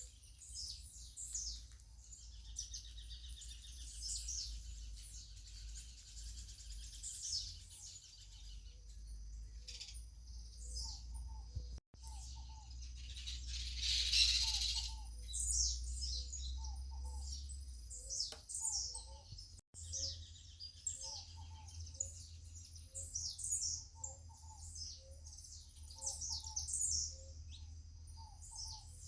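Several birds chirping and calling, with a lower call repeating about once a second over a steady low rumble. A hiss swells up for a few seconds around the middle.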